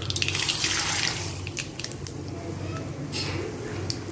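Peanuts and dals poured from a steel plate into hot oil in an iron kadhai, hitting the oil with a loud sizzle in the first second or so, then settling to a quieter steady frying sizzle with a few small clicks.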